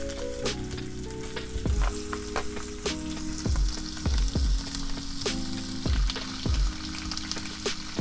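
Smoked duck slices sizzling in their own rendered fat in a hot nonstick frying pan, with repeated clicks and scrapes of a utensil stirring them.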